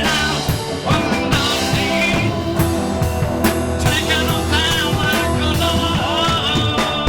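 Psychedelic rock song playing: a full band with guitar and drums, with wavering, bending melodic lines that may be a voice or a lead guitar.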